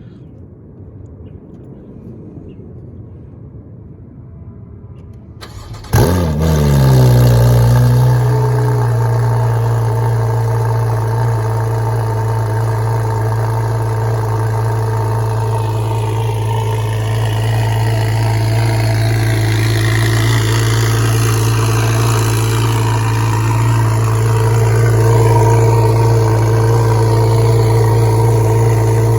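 Porsche 981 Cayman flat-six with a catless titanium header and exhaust starting about six seconds in with the exhaust valves closed: a brief crank, then a loud flare of revs that drops over a couple of seconds and settles into a steady, deep idle.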